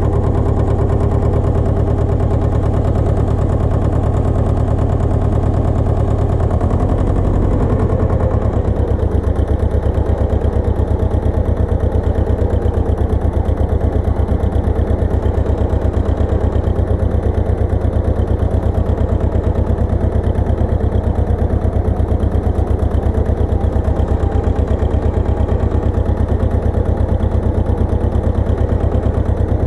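Pasquali 980 EX two-wheel tractor's engine running steadily with a fast, even pulse; its note shifts about seven to eight seconds in, then holds steady again.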